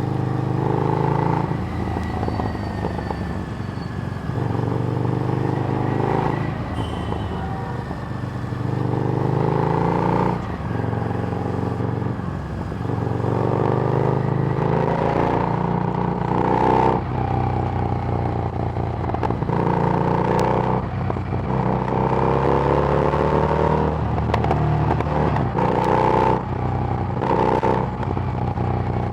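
Harley-Davidson Street Rod's V-twin engine through a Screamin' Eagle exhaust, heard while riding. The engine note rises in pitch under throttle several times and drops back between pulls.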